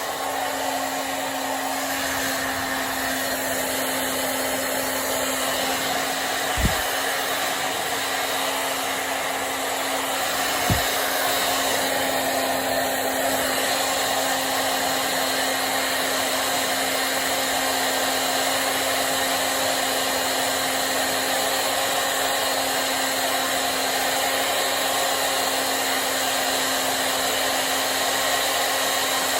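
Hand-held hair dryer blowing steadily while drying hair, with a constant motor hum under the rush of air. There are two brief low thumps, about 7 and 11 seconds in.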